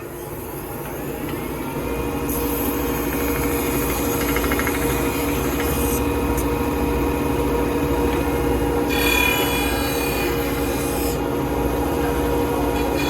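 Belt sander switched on and running up to speed with a steady motor hum, while a wooden piece is pressed against the moving belt. The sanding adds a harsher hiss in two stretches, one starting about two seconds in and a second one later.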